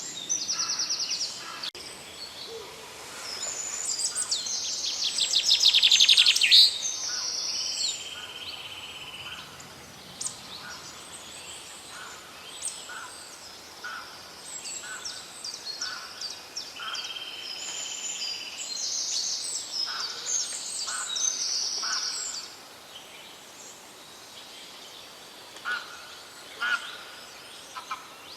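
Several songbirds singing and calling together: overlapping chirps, trills and short whistled phrases, with one loud trill swelling up about five seconds in. A faint steady hiss lies underneath.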